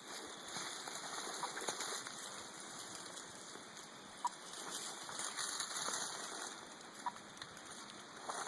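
Radio-telemetry receiver giving a short, faint beep about every three seconds, the pulsed signal from the rattlesnake's implanted transmitter. Under it, steady rustling and crunching of dry leaf litter underfoot.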